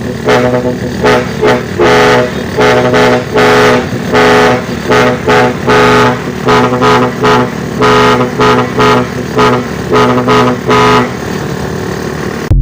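Truck horn tooting in a long, quick rhythmic series, its pitch stepping between a few notes like a tune, over the steady drone of the truck's engine.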